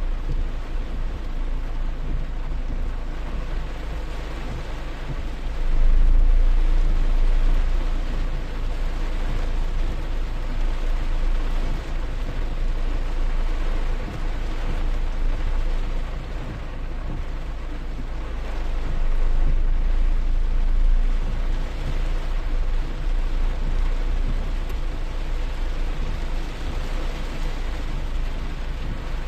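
Steady rain falling, with a low rumble that swells twice, about six seconds in and again about twenty seconds in.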